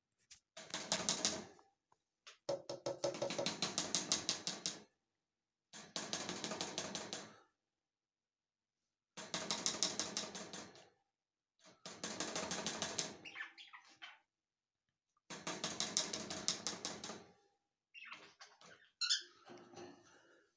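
Cockatiel making six bursts of fast, even clicking, each lasting one to two seconds with pauses between them, then softer scattered sounds near the end.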